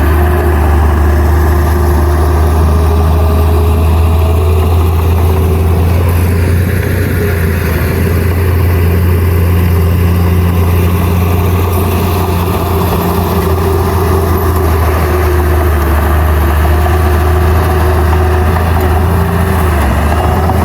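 Heavy-equipment diesel engine running steadily with a deep, continuous low hum.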